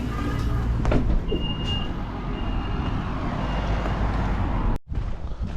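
City bus running, heard from inside: steady low engine rumble and road noise, with three short high electronic beeps about a second apart. The sound drops out for a moment near the end.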